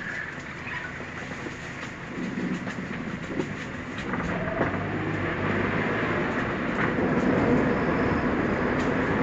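Running noise of a new Suzuki Jimny on the move: tyre and road rumble with engine sound and light clicks and rattles, growing louder about four seconds in.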